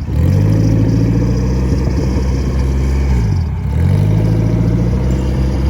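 Honda K20 four-cylinder engine running at a steady pitch. Just after the start the engine note climbs back up from a dip, and about three and a half seconds in it drops briefly and climbs back again.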